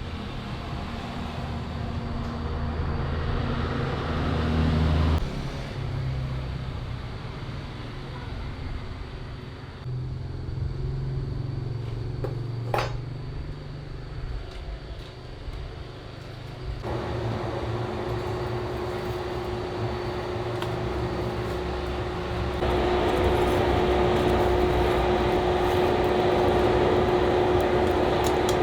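Motor-driven machinery running steadily, in several abruptly cut segments, with one sharp knock about halfway through; in the later part a steady hum holds a constant pitch.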